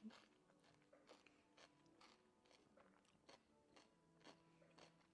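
Near silence with faint, scattered crunching clicks of quiet chewing over a low hum.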